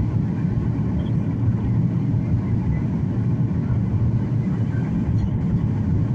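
Boeing 737 in flight, heard from inside the passenger cabin: a steady low rumble of engines and airflow.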